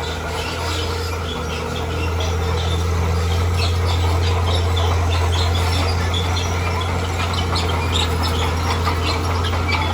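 Heavy earthmoving machine's diesel engine running steadily, getting louder about two seconds in, with scattered short high clicks and squeaks over it.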